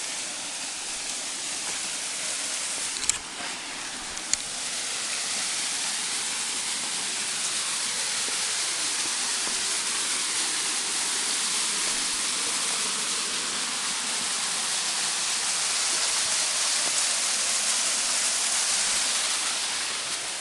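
Small waterfall's falling water rushing as a steady hiss, growing a little louder in the second half. Two brief clicks about three and four seconds in.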